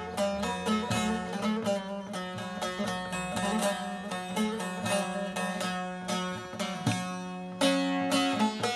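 Instrumental break in Turkish folk music: fast plucked string melody over a steady low drone, growing louder near the end.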